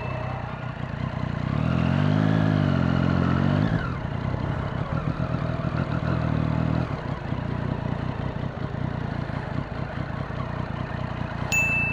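Triumph Street Triple's three-cylinder engine running, revving up and back down about two seconds in, then holding a steady note before settling lower. A short high ding near the end.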